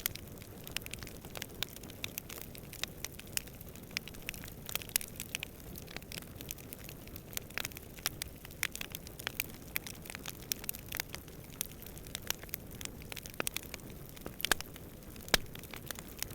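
Campfire burning with frequent irregular crackles and pops over a steady low rushing of the flames.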